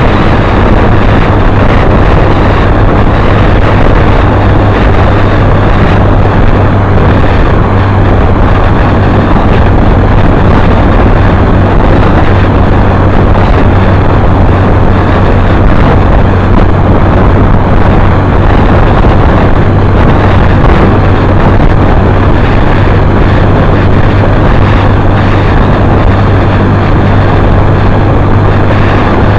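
Motorcycle riding at a steady pace: the engine running at constant speed under a loud, unbroken rush of wind noise on the microphone.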